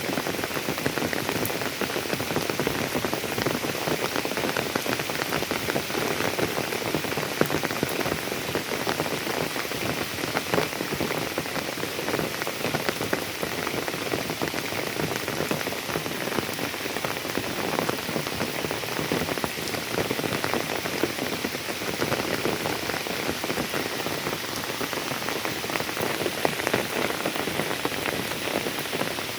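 Steady rain falling: a dense, even hiss thick with countless small drop taps.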